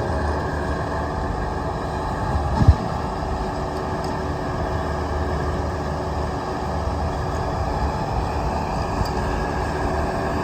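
A large engine running steadily, with one short knock about two and a half seconds in.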